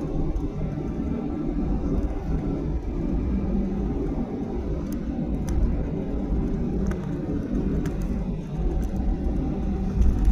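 Steady low rumble inside the cabin of a Boeing 737-800 with its CFM56 engines running, the jet on the ground before takeoff. A few faint clicks come in the second half.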